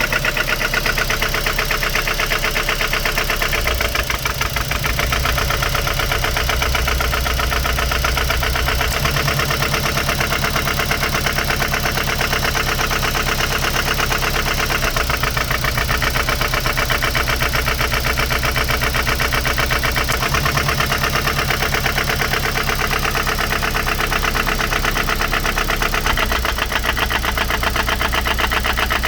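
Mazda MX-5 NC 1.8 four-cylinder engine running steadily with a fast, even knocking from the engine.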